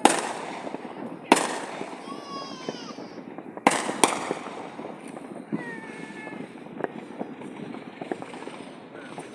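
Fireworks going off: four sharp bangs, two of them close together about four seconds in, with smaller pops and crackles between them. A pitched vocal sound, a shout or call, comes twice in the gaps.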